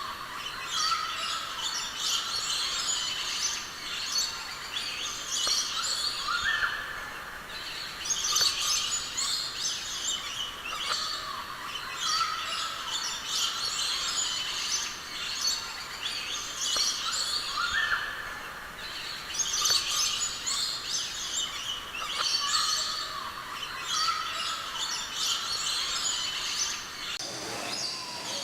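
A chorus of many aviary birds chirping and twittering together, with an occasional rising whistle among the high calls.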